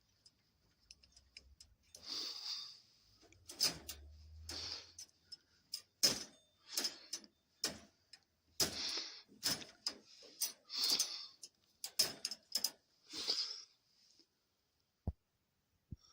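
Doves moving about in their cage: irregular sharp clicks and taps with short rustling bursts, several to a dozen through the stretch.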